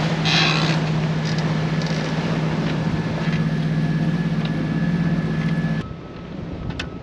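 Boat engine running steadily under way, a constant low hum over wind and water hiss. It cuts off abruptly about six seconds in, leaving quieter wind and water noise.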